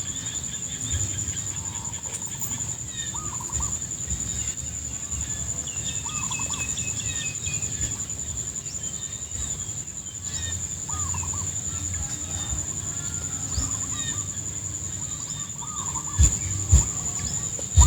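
Rice-field ambience: a steady high-pitched insect drone, with short warbling animal calls every second or two and a low rumble underneath. A few sharp knocks near the end.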